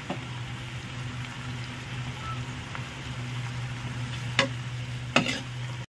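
Minced meat and onions sizzling and bubbling in oil in a non-stick pan as the keema cooks in the water it has released, over a steady low hum. A slotted steel spoon knocks against the pan twice near the end.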